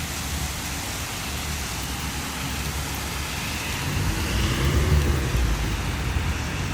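Heavy rain falling steadily, with a low rumble that swells about four seconds in and fades a second or two later.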